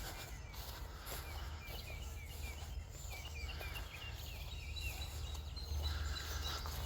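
A bird singing outdoors, a long string of short, quick chirping notes repeated over and over, over a steady low rumble.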